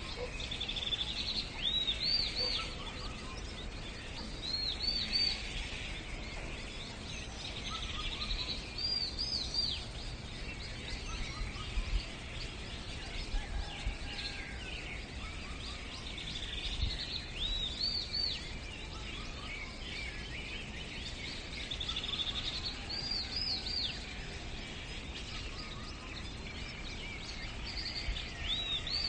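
Birdsong over a steady outdoor hiss: a songbird repeats a short high phrase of quick arched notes every few seconds, with fainter chirps in between.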